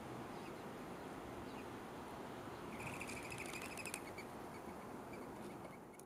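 Outdoor backyard ambience with wild birds calling: a few faint chirps, then about three seconds in a rapid chattering trill lasting about a second, followed by a string of short chip notes.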